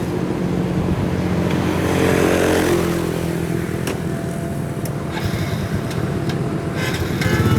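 Diesel engine of a farm machine (tractor or combine harvester) running under load, its pitch rising briefly about two seconds in and then settling back to a steady run.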